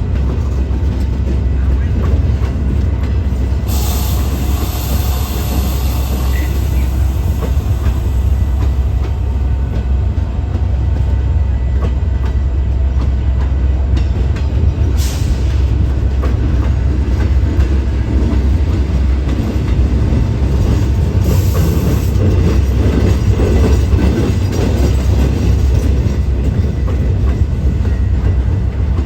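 A train passing close by: a steady heavy rumble of wheels on the rails with clickety-clack, and short high hissing bursts about four, fifteen and twenty-one seconds in.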